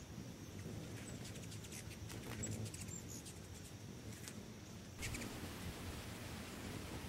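Faint outdoor ambience with small birds chirping: a few short, high squeaky chirps and a quick chittering run of ticks in the first half.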